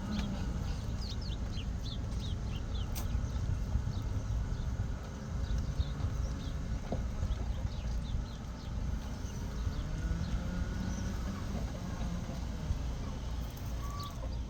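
Steady low rumble of walking outdoors, with many short high chirps scattered through it, typical of small birds, and a few sharp clicks.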